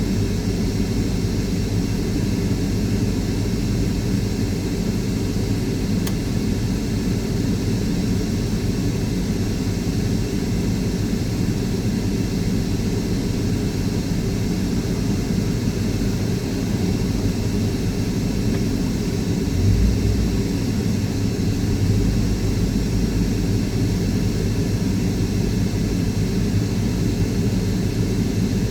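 Steady low rumble of a car's engine and road noise heard from inside the cabin, with a brief louder low swell about twenty seconds in.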